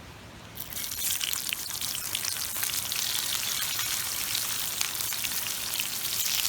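Food sizzling and crackling in hot oil in a frying pan, starting abruptly about half a second in and then frying steadily.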